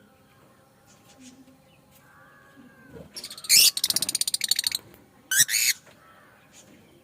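Lovebirds calling: faint chirps, then loud shrill shrieks about halfway through that run into a fast rattling chatter for about a second, and one more shrill shriek a little later.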